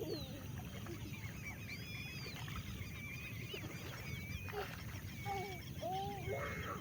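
Birds chirping and calling, many short whistles and arched calls overlapping, over a steady low rumble.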